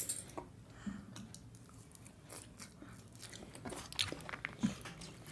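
A person chewing a mouthful of food, with soft irregular wet clicks and smacks of the mouth and a slightly louder smack about four seconds in.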